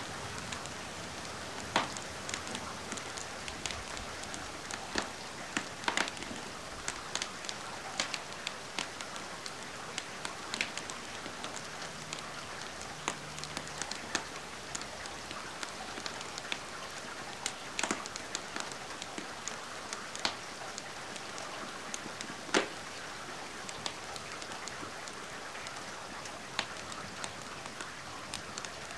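Steady rain mixed with a fireplace fire crackling, giving scattered sharp pops at irregular intervals.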